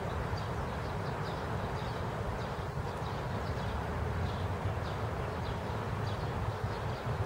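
Steady rain falling over a garden, an even hiss with a low rumble underneath and faint high chirps scattered through it.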